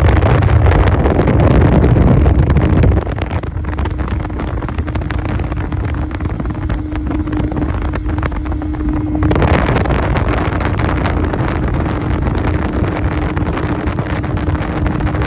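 Motorboat running across the lake, with wind buffeting the microphone and a steady hum under it. The level drops about three seconds in and rises again about nine seconds in.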